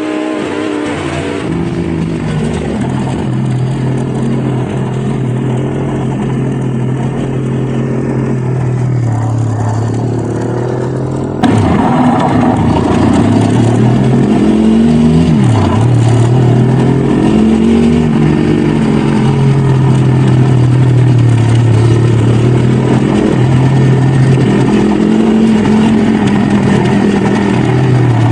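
Dirt bike engine running on a trail ride, its revs rising and falling repeatedly as the throttle opens and closes. The sound gets suddenly louder about halfway through.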